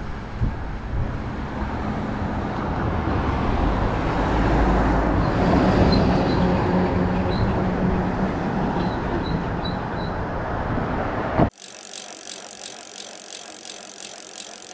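Wind and road noise from a bicycle ride: a steady low rumble and rush of air, with a few faint high chirps in the middle. About eleven and a half seconds in, it cuts off abruptly and a different hissy sound with a quick even pulse takes over.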